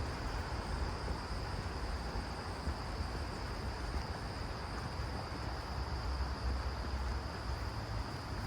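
Steady insect chorus in summer woods, a constant high-pitched drone that holds level throughout, over low wind rumble on the microphone.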